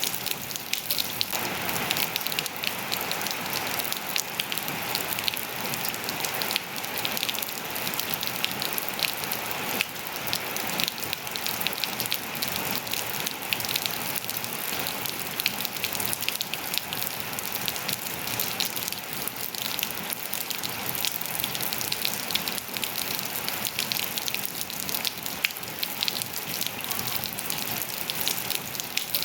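Steady rain falling, with many close drops pattering sharply on hard surfaces over an even hiss.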